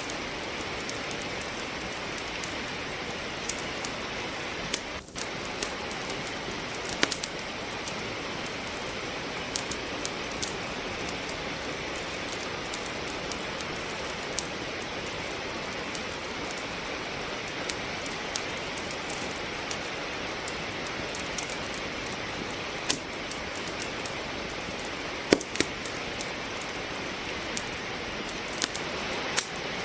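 Steady rain falling, with a wood fire crackling over it in scattered sharp pops, the loudest pop a few seconds before the end. The sound drops out for a moment about five seconds in.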